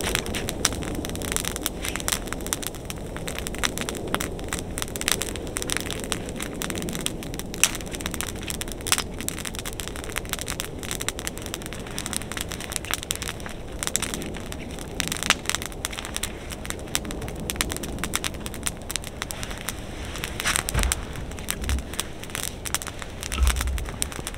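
Wood fire crackling steadily with scattered louder pops, and a couple of dull low thumps near the end.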